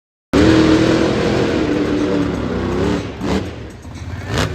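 Monster truck engine running loud and revving, its note holding and then easing off slightly. It starts abruptly after a brief silence.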